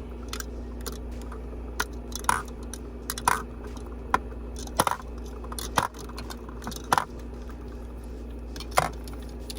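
Lip crayons and gloss tubes clicking and tapping as they are set into a makeup organizer, sharp irregular knocks about once a second.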